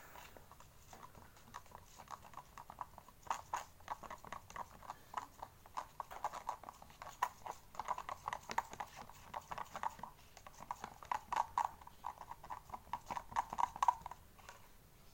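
A plastic bottle holding a soapy polish mixture being worked to mix its contents: rapid, irregular knocking and clicking that runs in spells and stops about a second before the end.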